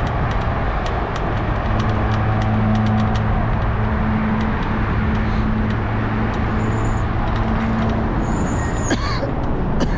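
Steady roar of freeway traffic passing overhead, with a low droning hum from about two to eight seconds in. Light clicks are scattered through it.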